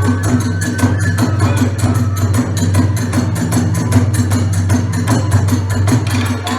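Kagura ensemble music: percussion striking a fast, even beat of about six strokes a second over a steady low drone.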